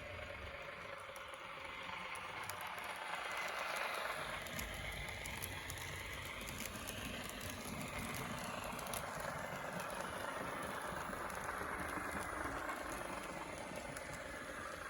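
N gauge model train running along the layout's track: a steady whirr of the small electric motor with light wheel-on-rail rattle and faint clicks, growing louder over the first few seconds and then holding steady.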